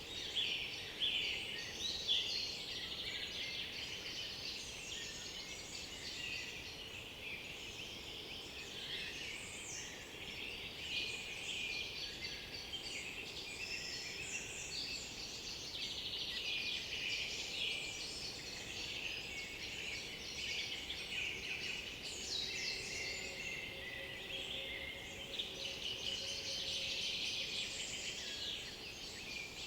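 Chorus of many songbirds singing at once in a forest, a continuous overlapping mix of chirps, trills and whistles.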